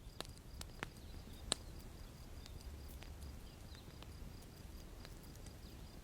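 Campfire burning with sparse, sharp wood crackles and pops over a low rumble, the loudest pop about a second and a half in.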